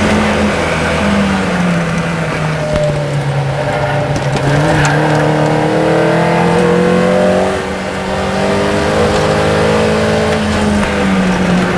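Racing car engine at full throttle. Its note falls early on, climbs steadily for about three seconds, drops briefly when the throttle lifts about two-thirds of the way in, then climbs again.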